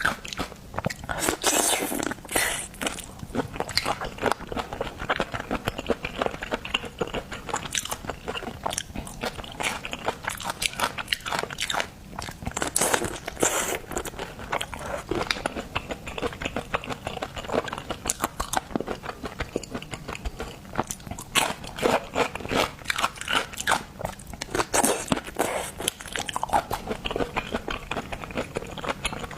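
Close-miked eating: a person biting and chewing seafood, with dense wet clicks and crackles and a louder cluster of bites every few seconds.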